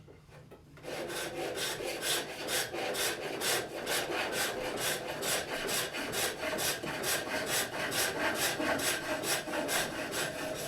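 A turning tool cutting a wooden blank spinning on a foot-powered pole lathe, taking the rim down in a steady rhythm of repeated cutting strokes as the lathe spins back and forth. The cutting starts about a second in.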